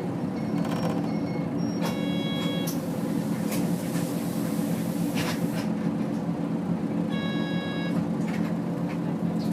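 Nissan Diesel UA city bus heard from inside while under way, its diesel engine running at a steady pitch. Two identical short electronic tones sound about five seconds apart.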